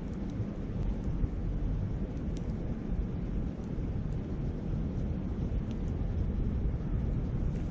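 Wind buffeting the microphone in a steady low rumble, with faint occasional crackles from a wood campfire.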